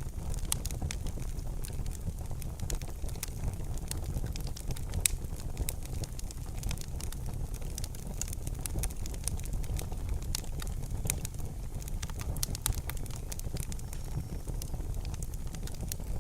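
Wood fire crackling in a fireplace: frequent sharp pops and snaps over a steady low rumble of the burning, with one louder pop about five seconds in.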